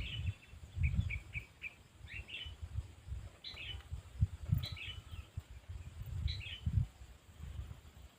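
Sooty-headed bulbul (kutilang) calling in short chirpy phrases of a few quick notes, repeated about every second, over irregular low thumps.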